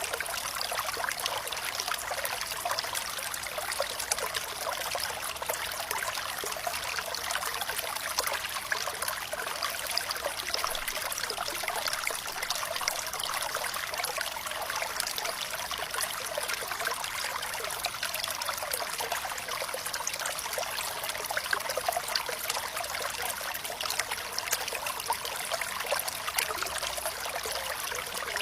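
Running water trickling and splashing steadily, a bright babble of many small splashes with little low rumble.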